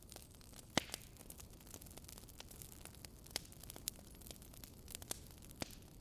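Wood fire burning in a fireplace: a low steady hiss with irregular sharp crackles and pops, the loudest about a second in.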